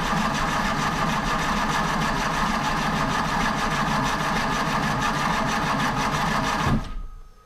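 Jaguar 3.8-litre straight-six being turned over steadily on its starter motor to build oil pressure, with no carburettors or exhaust manifolds yet fitted; it stops near the end.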